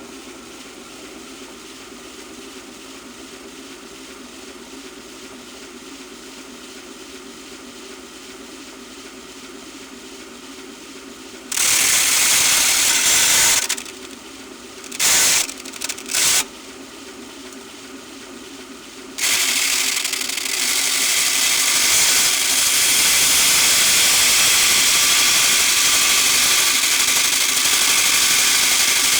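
Electric belt sander running freely with a steady hum. About twelve seconds in, a pen is pressed against the moving belt and gives a loud grinding rasp for about two seconds, then two brief touches. From about nineteen seconds on there is continuous loud grinding as the pen is sanded away.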